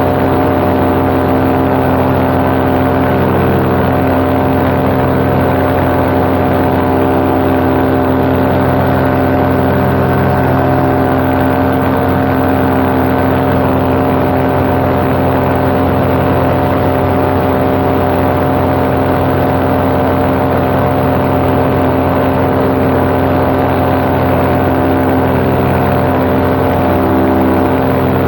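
Paramotor engine and propeller running steadily at a constant cruise setting, a loud, unbroken drone that holds one pitch.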